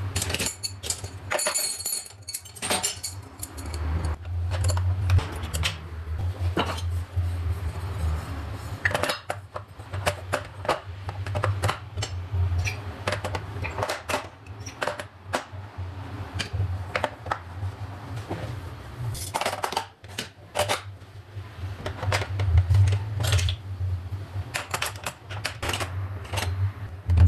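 Kitchen utensils being handled and set into a drawer organiser: irregular clinks, clacks and knocks of metal and hard objects, over a steady low hum.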